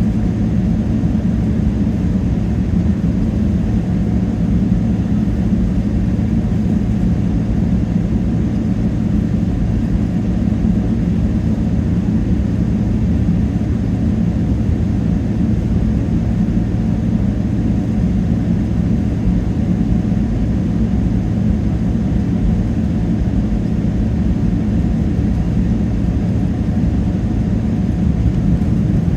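Steady cabin rumble inside a Boeing 777-300ER, its GE90 engines running evenly with a low hum under the airflow noise.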